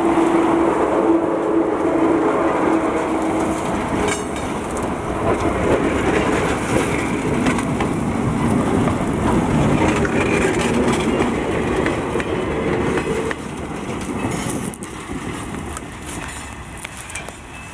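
A small diesel switcher locomotive passes close by with its engine running, followed by its cars, whose wheels clatter on the rails. The sound fades over the last few seconds as the train moves away.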